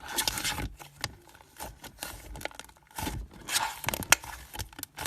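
Slime being squished and stretched by hand, giving irregular bursts of wet squishing with sharp little clicks and pops.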